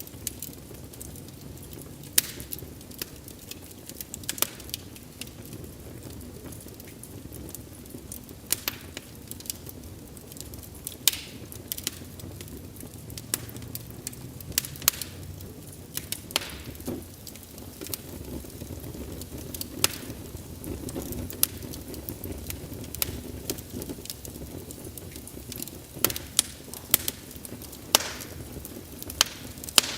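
Wood fire crackling: irregular sharp pops and snaps over a steady low rush of burning wood, with a cluster of louder pops near the end.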